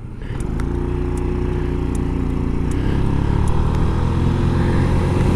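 A 1993 Yamaha Riva 125 scooter's single-cylinder four-stroke engine running under way, growing louder over the first second and then pulling steadily.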